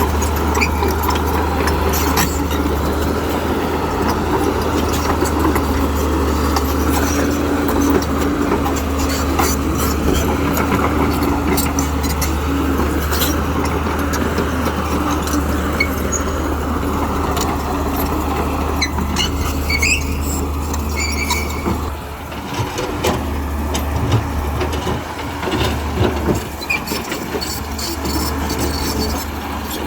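Huina 1592 RC excavator running, a steady low motor hum with many sharp clicks and clatters and a faint squeal. The sound dips briefly about 22 seconds in, then picks up again.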